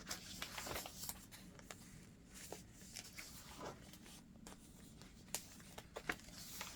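Paper pages of a thick handmade junk journal being turned and handled: faint rustling with scattered soft ticks and taps, a few sharper ones near the end.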